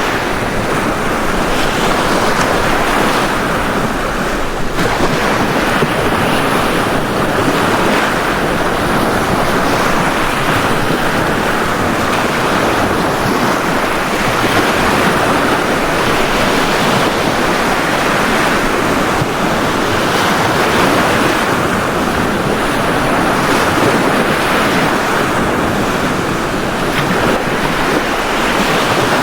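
Ocean surf breaking and washing on a beach: a steady rush of water that swells and eases gently.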